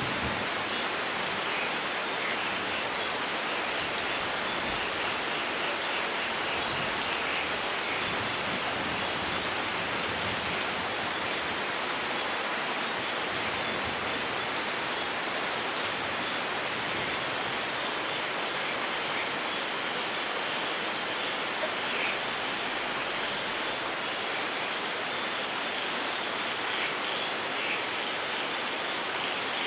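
Steady rain falling, an even hiss with scattered drop patter.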